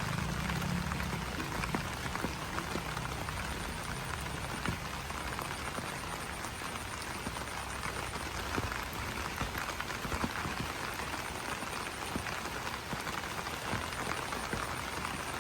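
Rain falling on banana leaves: a dense, even patter of drops. In stretches a faint repeated high trill sounds, with low pulsing animal calls near the start.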